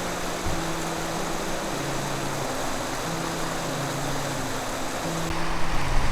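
Flowing water from a small winter-fed waterfall and stream, a steady rush, under background music of slow, held low notes. A low rumble builds near the end.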